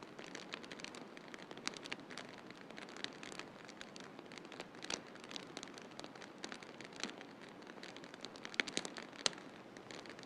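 Wood fire crackling in a fireplace: irregular sharp pops and snaps over a steady soft hiss, with a few louder pops about halfway and near the end.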